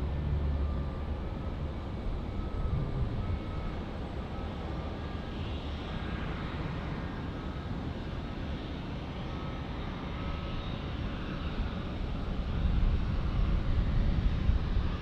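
Jet airliner engines running, a steady rumble with a faint high whine, the rumble growing louder near the end.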